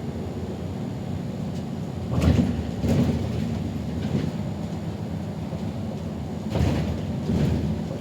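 City bus in motion heard from inside the cabin: a steady low drone of engine and road noise, with a few short knocks and rattles about two, three and six and a half seconds in.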